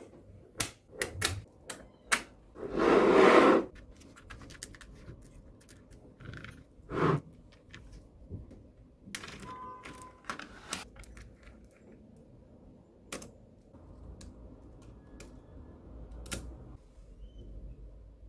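Small magnetic balls clicking and clacking as they are handled and snapped together, a scatter of sharp clicks. About three seconds in there is a louder, longer rattling rush, like a cluster of balls sliding or shifting.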